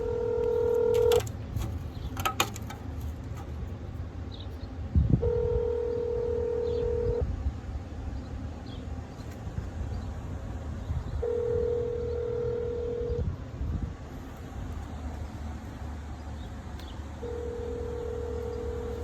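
Telephone ringback tone of an outgoing call ringing unanswered: four steady rings about two seconds long, one every six seconds, over a low background hum.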